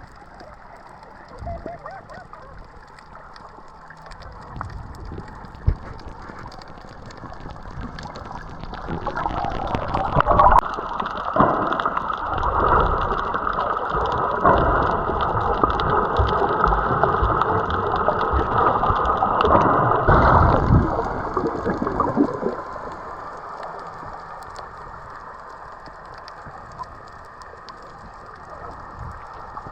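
Water sloshing and bubbling around a camera during snorkelling, muffled, growing louder for about twelve seconds in the middle.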